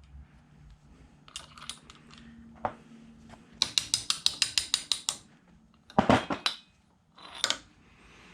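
Light metallic taps on a 10mm socket used as a drift to knock a stuck wrist pin out of a Pinasco 177 piston. A quick run of about a dozen taps comes a few seconds in, followed by a few louder knocks.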